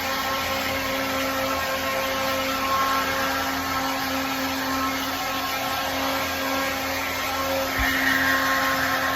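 A steady motor hum and whir, with a low thump about eight seconds in.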